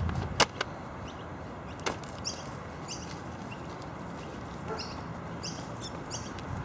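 Small birds chirping in short, repeated high calls, with a couple of sharp clicks in the first two seconds.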